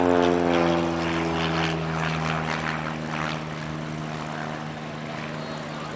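Propeller airplane's piston engine passing by: its pitch falls as it goes past, then settles into a steady, slowly fading drone as it flies away.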